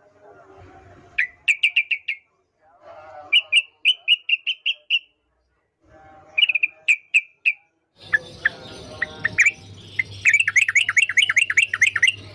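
Yellow-vented bulbul (trucukan) singing in short phrases of quick, sharp chirping notes with brief pauses between them, with softer chattering notes underneath. About eight seconds in, a busier, faster run of notes begins over a louder background hiss.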